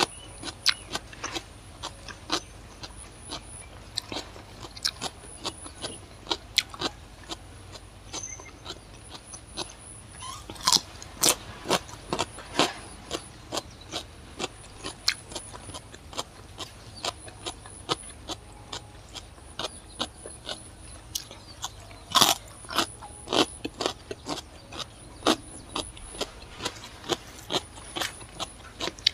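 A person eating raw cucumber close to the microphone: crisp crunching and chewing, with sharp wet mouth clicks several times a second. The loudest clusters come about a third of the way in and again a little past halfway.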